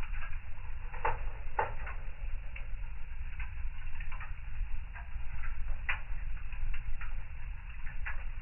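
Wood fire crackling in a fireplace: irregular snaps and pops over a steady low rumble, with a few louder pops about a second in and near six seconds.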